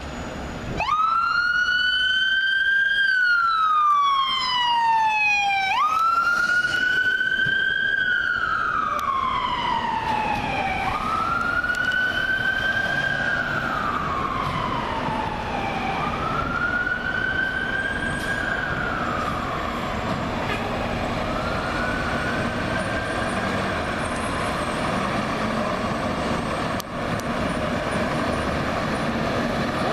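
Fire truck siren wailing in repeated cycles: each climbs quickly, then slides slowly down in pitch, about every five seconds, growing fainter over the later cycles.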